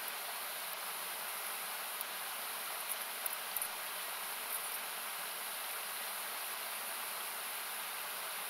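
Steady rushing of a river, thinned by equalizer cuts into a hiss, with a few short pops of a wood campfire crackling between about two and five seconds in.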